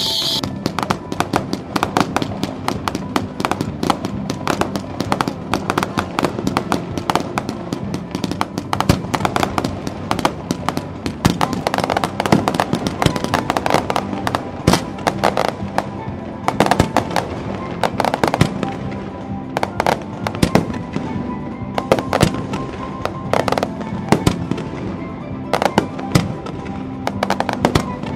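Fireworks display: a dense, continuous barrage of shell bursts and crackling, many sharp reports a second throughout, with music playing underneath.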